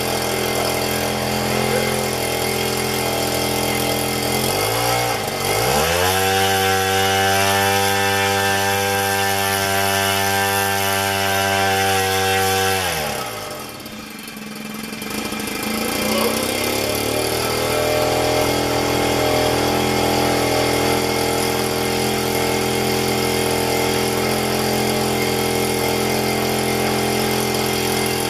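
Zenoah GT80 two-stroke twin-cylinder gas engine running through a large can muffler with its tri-tip pipes removed, spinning a propeller. About five seconds in it runs up to full throttle and holds a high steady note for about seven seconds for an RPM check, which shows about 5,800 rpm. It then drops back sharply and settles to a steady lower speed.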